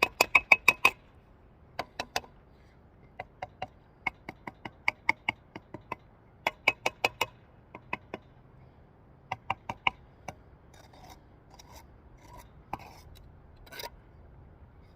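Steel brick trowel tapping bricks down into the mortar bed to bring them level, in quick runs of ringing taps, five or six a second. In the last few seconds the taps give way to softer scraping of the trowel on brick and mortar.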